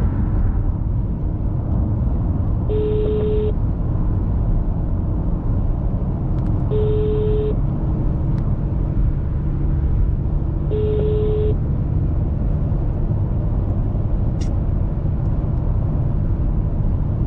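Phone ringback tone: a single low beep about 0.8 s long repeating every four seconds, four times, then stopping as the call is answered, with a sharp click about 14 seconds in. Under it runs the steady low rumble of a car's engine and road noise.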